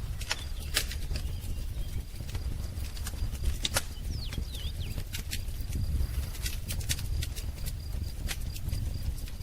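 Wood fire crackling, with irregular sharp pops over a low steady rumble of burning. A brief bird chirp about four seconds in.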